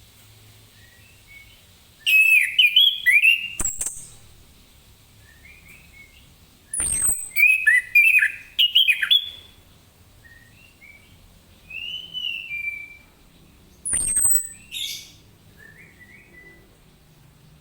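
Orange-headed thrush singing loud bursts of quick, varied whistled phrases. The bursts come a few seconds apart with short pauses between them, and some hold high, sharp notes.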